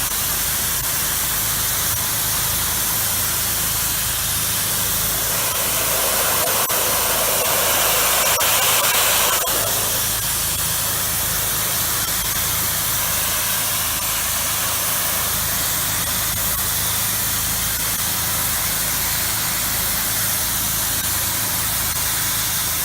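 Pressure washer spraying a low-pressure rinse onto house siding, a steady dense hiss of water over the steady hum of the machine's engine. The spray grows louder for a few seconds partway through, then cuts off at the end.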